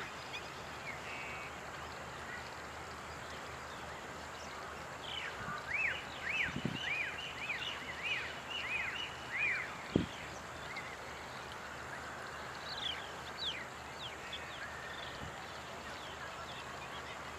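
Wild birds calling over steady outdoor background noise. About five seconds in, one bird gives a run of about ten quick rising-and-falling whistled notes; a few short falling notes follow a few seconds later. A single low thump sounds about ten seconds in.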